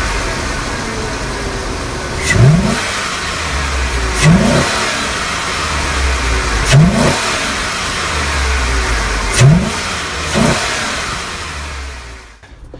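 2004 GMC Yukon's V8 running under the open hood, blipped five times to higher revs in short rising surges. It breathes through a homemade short ram air intake whose factory silencer has been cut off. The engine sound stops abruptly near the end.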